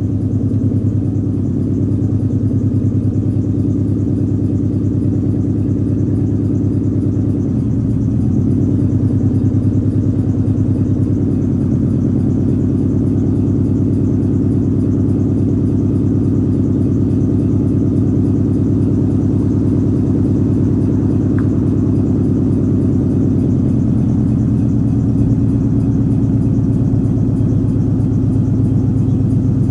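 1996 Mustang Cobra's 4.6-litre DOHC V8 idling steadily just after start-up, a low, even rumble through BBK long-tube headers, a Pypes H-pipe and a Pypes cat-back with M80 mufflers.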